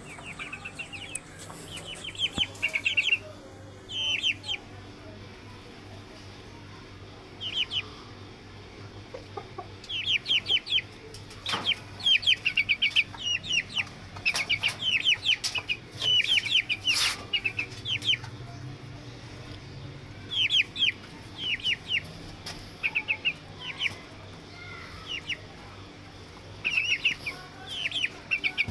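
Birds chirping in bursts of short, quick notes, repeated again and again with pauses between the bursts, over a low steady hum.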